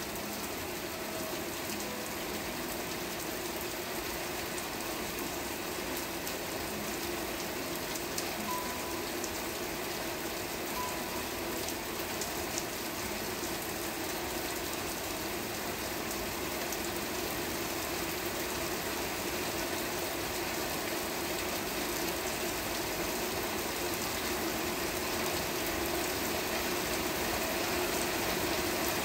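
Steady rain falling, an even hiss with scattered drop ticks, growing slightly louder toward the end.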